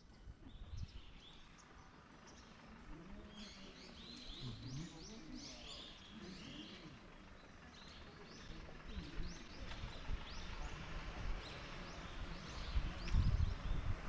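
Small birds chirping over and over, with a low rumble that grows louder near the end.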